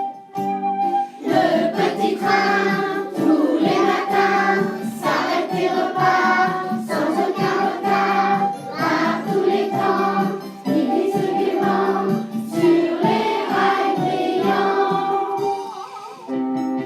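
A children's song sung by a group of voices over steady instrumental accompaniment.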